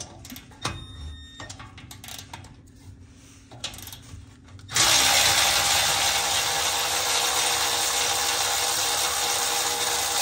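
A power tool running on the exhaust bolts, starting suddenly about five seconds in and running steadily to the end. Before it come a few faint clicks of tool handling.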